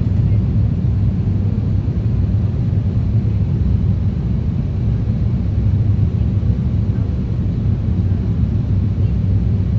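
Steady low rumble of an Airbus A350-1000 airliner in flight, the drone of its Rolls-Royce Trent XWB jet engines and airflow as heard inside the cabin.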